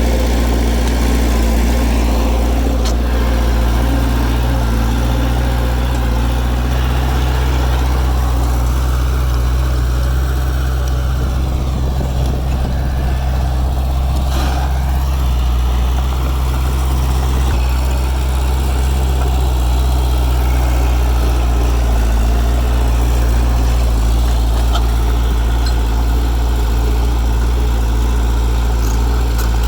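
Heavy diesel engine of earthmoving machinery running steadily, with a deep, even drone.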